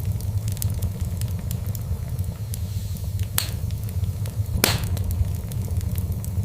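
Wood fire crackling, with a steady low rumble under a run of small snaps and two louder pops, about three and a half and just under five seconds in.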